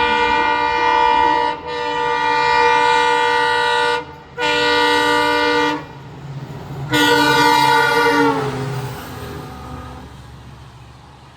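Locomotive air horn of a fast train passing through the station without stopping, sounding in long blasts: one already going at the start, then three more, the last dipping in pitch as the locomotive goes by. A low rumble of the passing train runs under the horn and fades away near the end.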